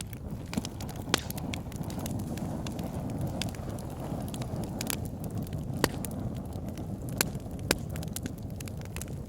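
Wood fire burning in a log burner: a steady low rush of flames with sharp crackles and pops scattered through it, several of them loud, about a second in and again between six and eight seconds.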